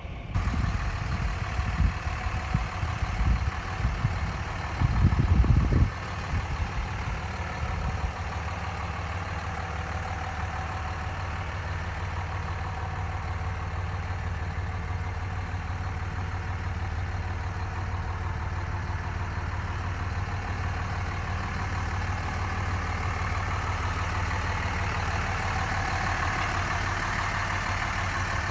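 Cummins 24-valve turbo diesel inline-six of a 2004 Dodge Ram 2500 idling steadily. For the first several seconds, low irregular buffeting on the microphone lies over it, heaviest about five seconds in.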